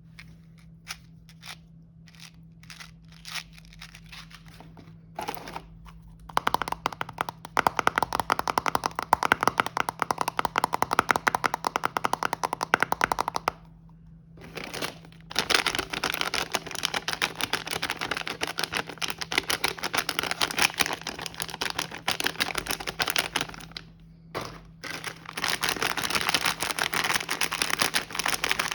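Snack packaging and a cardboard box being handled during unpacking: a few separate taps at first, then long stretches of dense crinkling and rustling, broken twice by short pauses.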